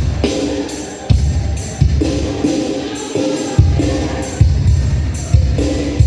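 Sampled drum kit from a Kontakt library played through loudspeakers into the room: kick-drum hits and a steady hi-hat pattern about twice a second, with pitched backing tones alongside.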